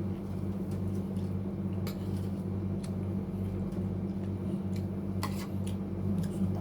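A steady low hum that pulses slightly, with a few sharp clicks of cutlery and dishes during a meal.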